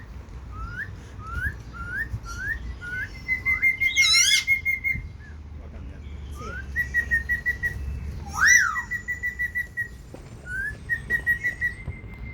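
A bird whistling its song: a string of short rising whistles, about two a second, then fast runs of rapid notes held on one high pitch, broken twice by a loud sweeping call, once about four seconds in and again near eight and a half seconds.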